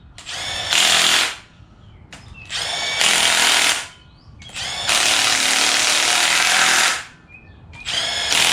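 Handheld power tool, such as a cordless drill or impact driver, running in short repeated bursts. Its motor whines up in pitch at the start of each burst, and the longest burst lasts about two seconds. It is running fasteners down on an engine being reassembled.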